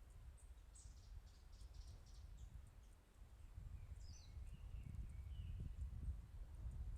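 Faint outdoor ambience of small birds chirping: quick high chirps in the first half, a falling chirp about four seconds in, then a longer call. Under them a low rumble grows louder in the second half.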